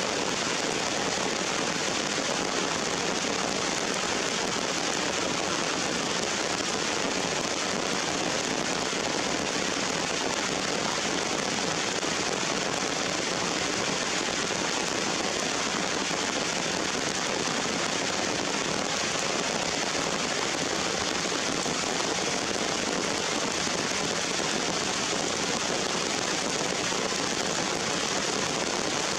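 Steady rain falling on leaves and wet rocks: an even hiss that does not let up.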